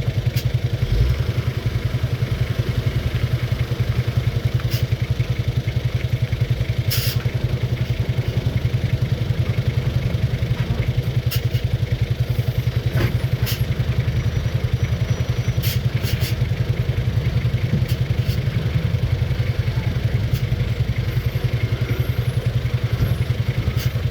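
Dump truck's diesel engine running steadily with an even low pulse, with occasional short clicks and rattles over it.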